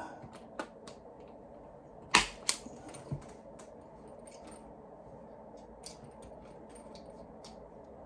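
A few sharp clicks and snaps from hand tools working on Cat6 network cable, the loudest group about two seconds in, then a couple of lighter ticks, over a faint steady background noise.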